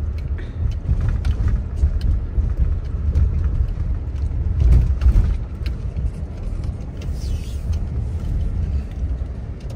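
Low, uneven rumble of a car's engine and road noise, heard from inside the cabin while driving.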